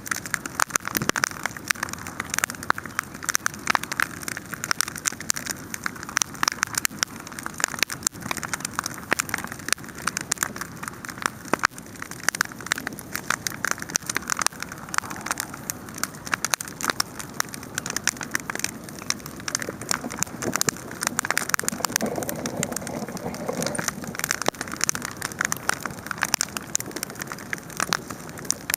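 Wood fire burning, crackling and popping constantly with many sharp snaps over a steady hiss of flame.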